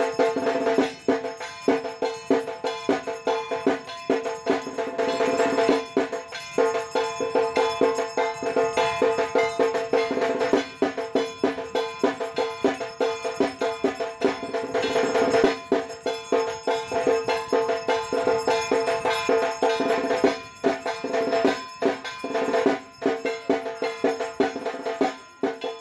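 Rhythmic percussion music: fast struck drum beats over a steady ringing metallic tone, continuing without a break.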